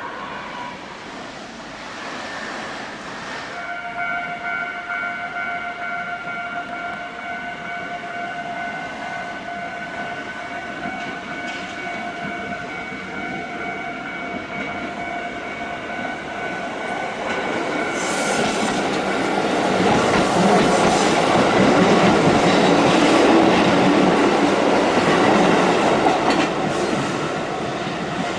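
A Japanese level-crossing warning bell starts ringing a few seconds in and rings steadily. A Kotoden electric train then approaches and passes, its wheels clattering over the rail joints, loudest about two-thirds of the way through.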